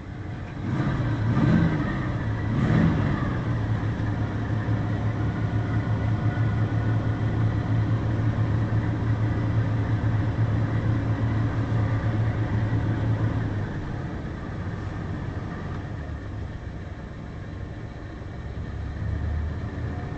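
1968 GMC 3500's 327 V8 running shortly after a cold start. It revs briefly twice in the first few seconds, then runs at a raised, steady fast idle, and about two-thirds of the way through it drops back to a lower idle.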